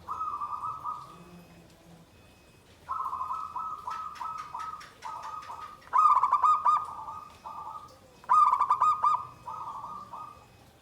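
Zebra dove (perkutut) singing its rolling, trilled coo. One short phrase comes at the start, then a run of repeated phrases follows from about three seconds in.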